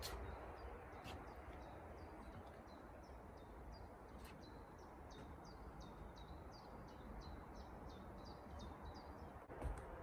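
Faint songbird calling in a fast series of short, high chirps, thickest in the second half, over a steady low background rumble.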